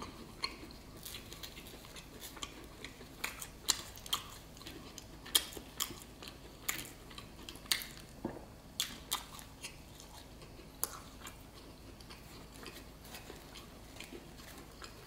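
A person chewing food close to the microphone, with irregular wet mouth clicks and smacks that come more often in the first half and thin out later.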